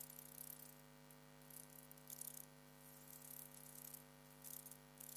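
Dragonfly wings giving faint, short dry rustling buzzes, repeated several times, over a steady electrical hum.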